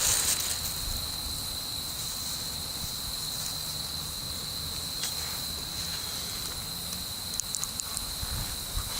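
Wood campfire burning with a few faint crackles and snaps, a small cluster of them about seven and a half seconds in, over a steady high-pitched insect trill.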